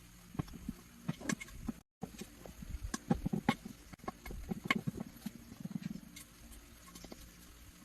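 Irregular light clicks and taps, scattered and uneven, with a brief dropout about two seconds in.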